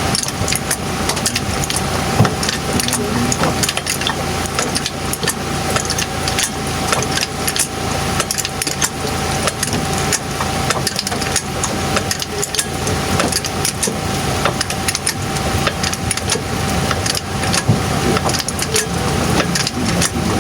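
Diesel truck engine idling steadily, with many short sharp clicks and taps scattered over it.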